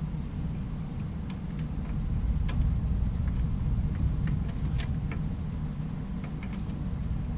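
Scattered light clicks and taps of hand work on metal parts during a mower transaxle install, over a steady low rumble.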